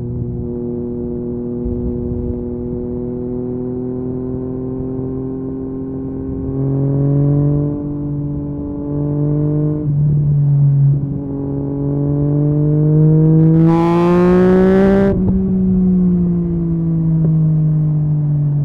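Yamaha MT-09's three-cylinder engine through an Akrapovic carbon exhaust, riding along steadily, then accelerating with rising pitch and short breaks at the gear changes. About fourteen seconds in it peaks, with a brief rush of noise, then the pitch falls as the throttle is closed.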